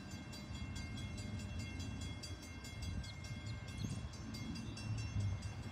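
Norfolk Southern mixed freight train approaching with a low rumble. Over it a grade-crossing bell rings fast and evenly, about five strikes a second.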